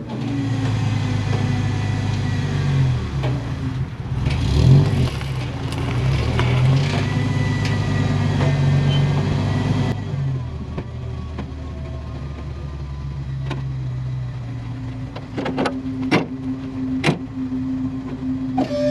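A vehicle engine running under way, its pitch rising and falling as it drives. Near the end a steady tone sets in, with a few sharp clicks.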